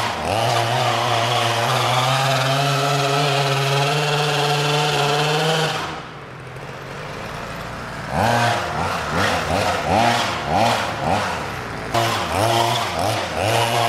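26cc two-stroke gasoline engine of a 1:5 scale RC buggy, held at high revs for about six seconds. It then drops to a low idle and is blipped up and down about twice a second for the rest of the time.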